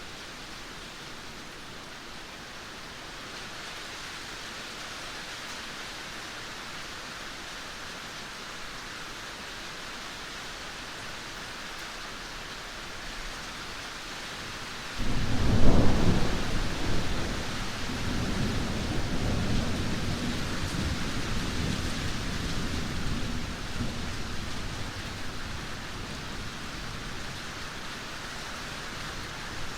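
Heavy rain falling steadily, then about halfway through a sudden loud thunderclap that rolls on as a low rumble, fading slowly over the following ten seconds.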